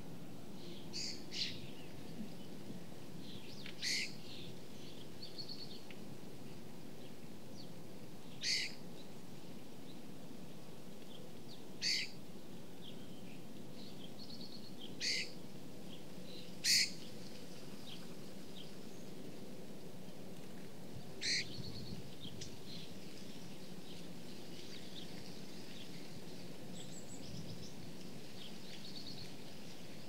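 Short bird calls every few seconds, seven or so in all, the loudest a little past halfway, over a steady low background noise.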